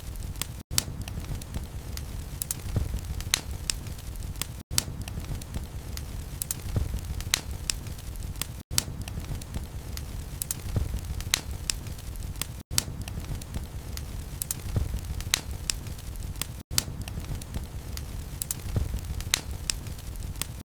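Wood logs burning in a fireplace: a low steady rumble of flames with frequent sharp crackles and pops, and a momentary dropout about every four seconds.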